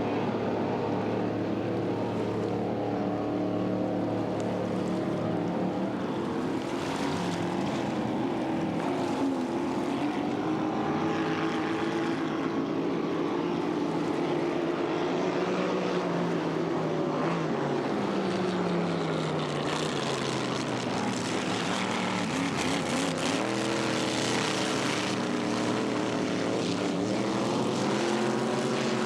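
Several V-drive racing boats' engines running together on the water, their pitches rising and falling as the boats speed up and slow down, over a steady rush of noise.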